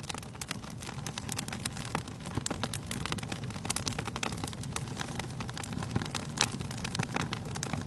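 Wood fire burning in a fireplace: a dense run of sharp crackles and pops over a low, steady rumble of flame, with one louder pop a little over six seconds in.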